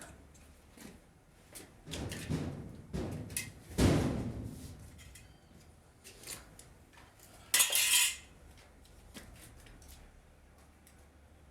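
Scattered knocks and clatters of hard objects being handled, the loudest knock about four seconds in, then a short scraping hiss just before eight seconds.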